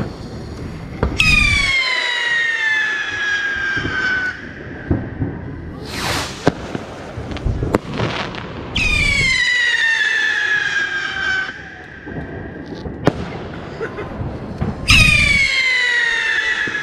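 Whistling fireworks: three long whistles, each falling steadily in pitch over about three seconds, one about a second in, one near the middle and one near the end. Sharp bangs and cracks go off between them.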